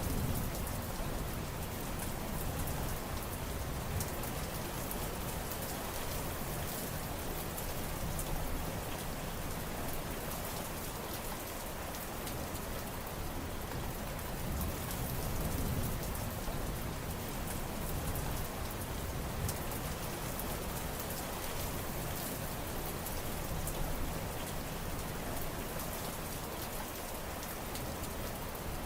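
Steady rain falling, a continuous hiss dotted with many small drop hits, even in level throughout.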